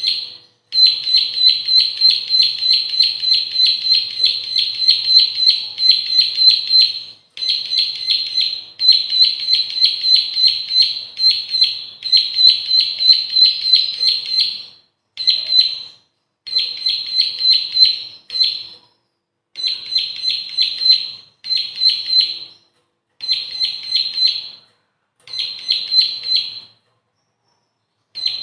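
Bar-winged prinia (ciblek) singing: a fast, steady string of sharp, high chirping notes repeated several times a second, in a long run at first and then in shorter bursts separated by brief pauses.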